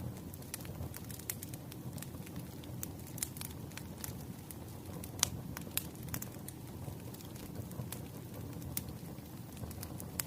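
Wood fire burning: a steady low rumble of flames with irregular crackles and sharp pops from the burning logs, the loudest pops about five and six seconds in.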